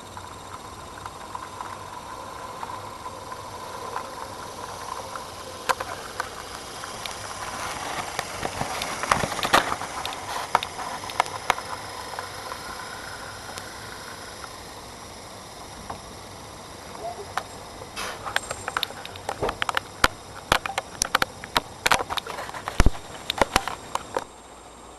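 Model train running on the layout: a steady whine with irregular clicking of wheels over rail joints. The clicks come thick in two spells, the second cutting off suddenly near the end.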